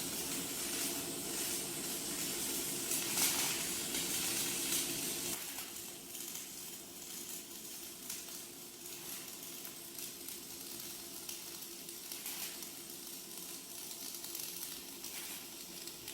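Paint spray gun hissing in surges as the stove body is sprayed. A steady machine hum underneath cuts off about five seconds in.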